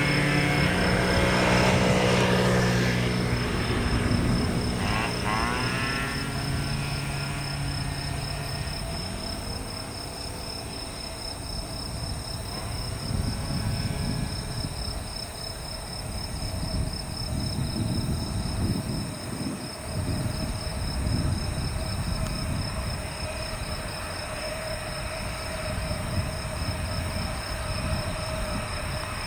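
Boeing E-8 jet's four turbofan engines, with a falling-pitch whine a few seconds in, then a steady rumble with a constant whine as the aircraft comes in to land.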